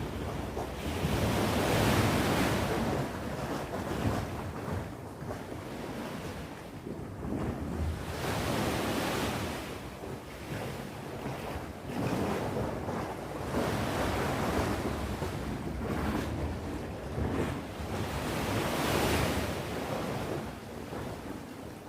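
Sea waves breaking and washing on the shore, the rush swelling and fading in slow surges, about four of them several seconds apart.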